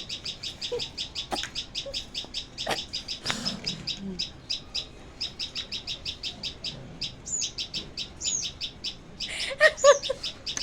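A small bird chirping rapidly and continuously, about six short high chirps a second, with a brief pause midway and a few downward-sliding notes later on.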